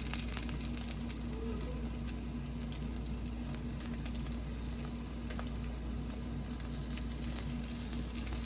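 Breaded cicada nymphs frying in a skillet of hot oil: a steady sizzle with scattered small pops, over a steady low hum.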